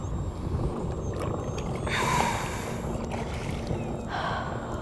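Low rumble of wind on the microphone and water around a kayak hull, with a short hiss of water about two seconds in and a fainter one near the end.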